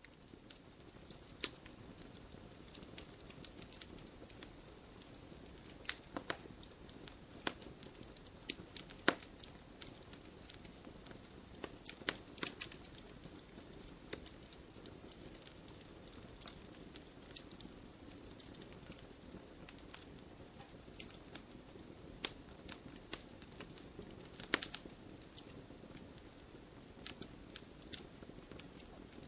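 Campfire crackling: a wood fire burning with a steady low rustle and irregular sharp pops and snaps, a handful of them louder than the rest.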